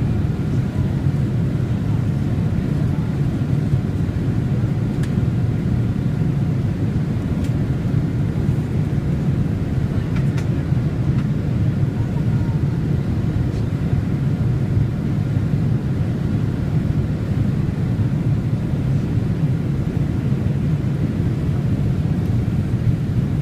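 Steady cabin noise inside a Boeing 787 Dreamliner: a constant low rumble of engines and airflow with a faint steady hum above it.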